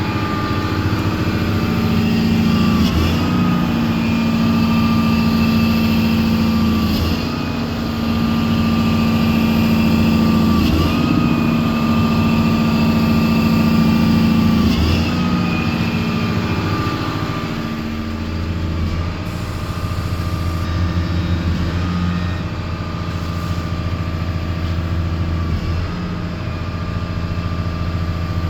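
Diesel engine of a Liebherr TA230 Litronic articulated dump truck running at a steady raised speed during a forced regeneration of its exhaust filter, with a steady high whine over it. The pitch dips briefly about every four seconds, and the note settles slightly lower and quieter after about 17 seconds.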